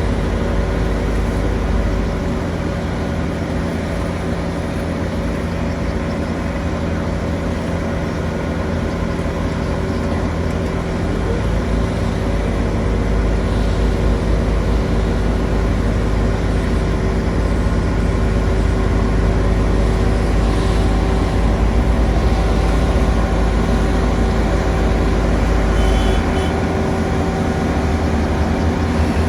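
Heavy road-construction machinery engine running steadily, a continuous low rumble with a steady hum of engine tones that swells and eases at times.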